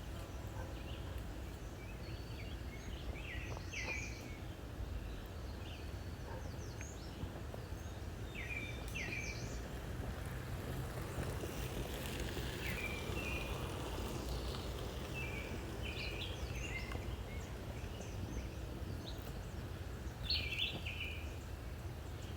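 Songbirds chirping and calling in short, scattered phrases, with a louder burst of chirps near the end, over a steady low rumble.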